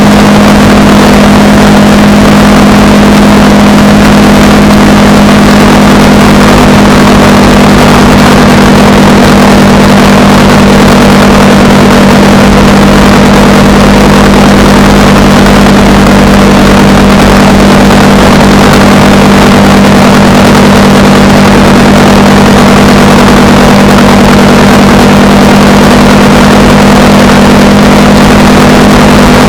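Honda Rebel 300's single-cylinder engine running steadily at a constant cruising speed, with loud wind and road noise.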